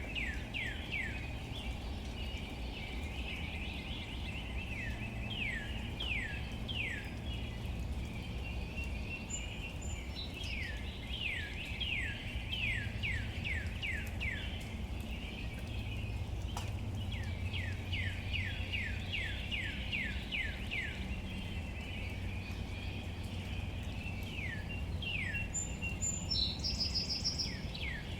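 Bouts of short calls from an animal, each sweeping quickly down in pitch, several a second, with a different, higher call briefly near the end. Under them runs a steady low rumble and a faint even hiss of outdoor ambience.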